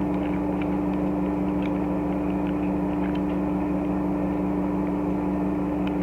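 Steady low machine hum with two constant tones, and scattered faint light clicks of plastic action-figure parts being handled.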